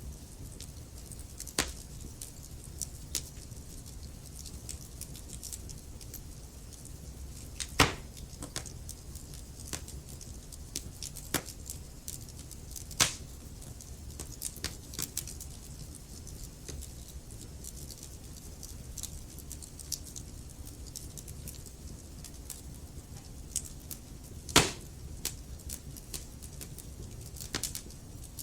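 Wood fire burning in a fireplace: a steady low rumble and hiss of the flames with scattered crackles and sharp pops of burning logs, three of them louder, at about 8, 13 and 24 seconds.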